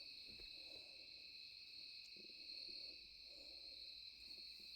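Faint night insect chorus: a steady, high-pitched buzz with no breaks.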